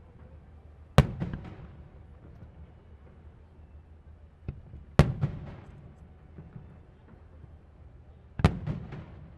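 Aerial firework shells bursting during a fireworks display: three loud bangs a few seconds apart, each trailed by a brief crackle and echo, with a smaller pop just before the second.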